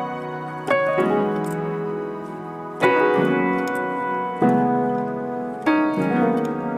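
Background piano music: slow sustained chords, a new one struck about every one and a half seconds and left to ring.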